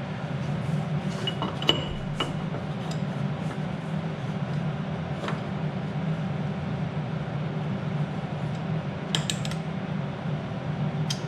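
Light metal clinks and knocks of steel tube and mount parts being handled and fitted into place, a few scattered taps and a quick cluster of clinks near the end, over a steady low hum.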